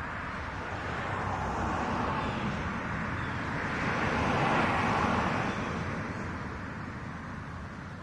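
A car driving past. The noise swells to a peak about four to five seconds in, then fades away.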